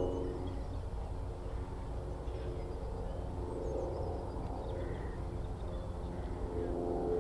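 Distant small propeller aircraft engine droning, fading in the first second and swelling again near the end, over a steady low outdoor rumble with faint, scattered bird calls.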